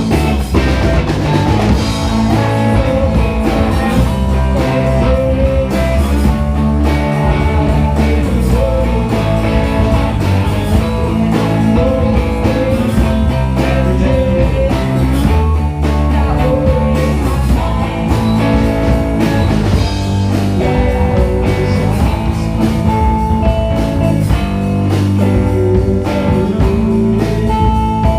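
Live band playing a funky blues-rock number: guitar over a steady bass and drum groove, loud throughout.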